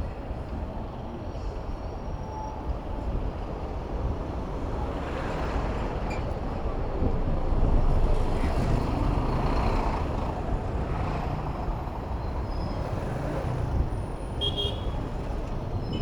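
City road traffic heard from a moving bicycle, with wind rumble on the microphone. The traffic swells about halfway through, and a short high-pitched tone sounds near the end.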